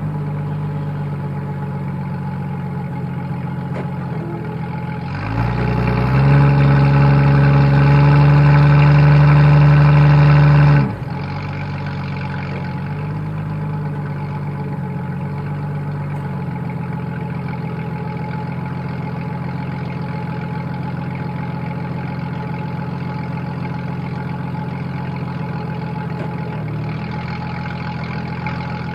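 1992 Jeep Cherokee's 4.0 straight-six, warmed up to operating temperature, idling through a 2.5-inch exhaust with a Thrush Turbo muffler. About five seconds in it is revved up and held at a steady higher speed for about five seconds, then drops sharply back to idle.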